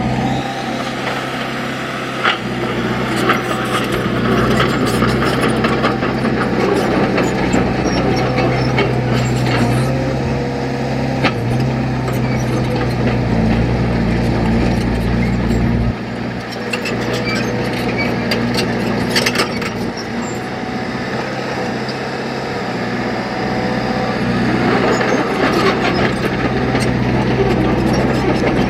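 Heavy construction machine's engine running steadily, its pitch shifting a little at times, with scattered knocks and clanks.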